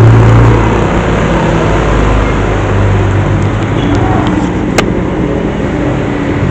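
A motor vehicle's engine running steadily under road noise, with a single sharp click nearly five seconds in.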